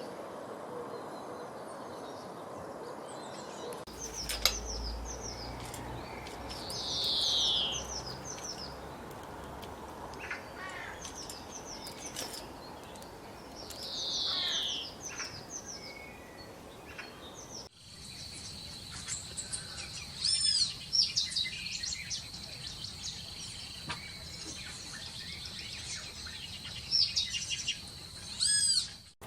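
Small birds chirping and calling, with two falling buzzy notes and scattered short chirps over a steady hiss. About 18 seconds in the sound changes abruptly to louder, sharp high chirps over a steady high-pitched tone.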